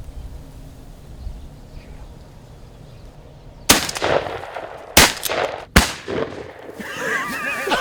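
Three shotgun shots in quick succession, the second about a second and a quarter after the first and the third under a second later: hunters firing on turkeys together and killing three longbeards at once.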